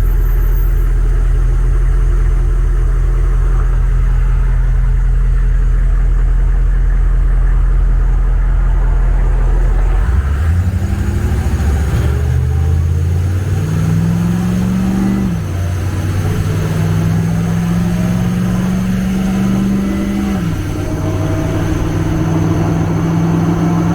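HMMWV diesel V8 engine idling steadily, then revving up about halfway through and holding at higher revs, rising and dropping back a couple of times while being warmed up.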